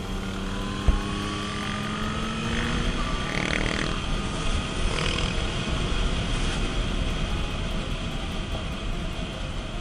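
A motor vehicle's engine pulling hard, its pitch climbing steadily over the first few seconds, under heavy rushing wind and road noise at speed. One sharp knock comes about a second in.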